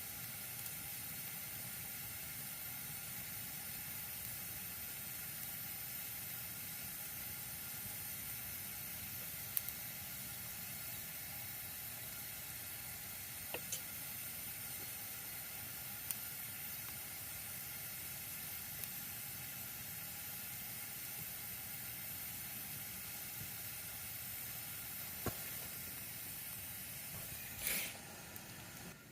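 Wood campfire burning with a steady hiss and a few sharp pops.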